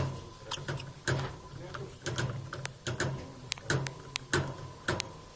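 Pet parrots: a run of sharp, irregular clicks and short high chirps over a steady low hum.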